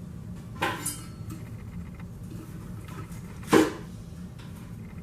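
Kitchen utensils and dishes being handled during food prep: a quick double knock a little over half a second in, then a louder single knock about three and a half seconds in, over a low steady hum.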